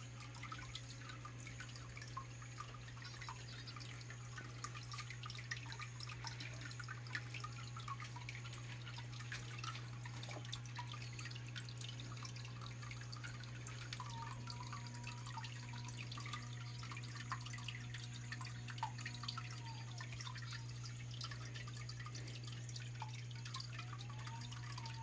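Small waterfall in a garden biotope pond trickling and splashing, full of fine drips and plops. A steady low hum runs underneath.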